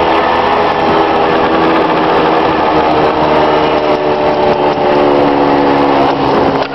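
Small motorcycle engine running steadily at cruising speed, with wind rushing over the microphone.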